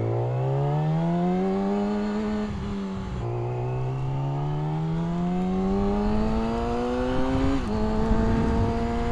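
Yamaha R6 sport bike's inline-four engine pulling under acceleration: its pitch climbs, drops sharply at a gear change about three seconds in, climbs again, then drops at another upshift near the end and settles to a steady cruise, with wind rush underneath.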